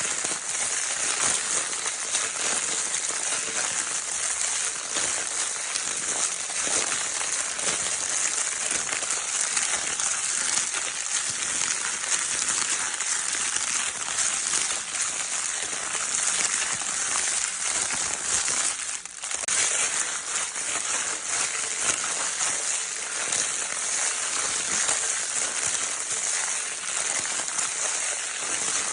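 Crinkle paper baby toy being crinkled continuously: a dense, steady crackling, with a brief drop about two-thirds of the way through.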